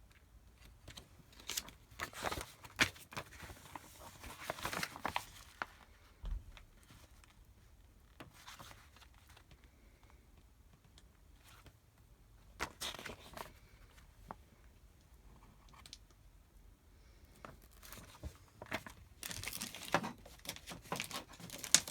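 Packaging being handled, crinkling and rustling in three bouts with quieter stretches between.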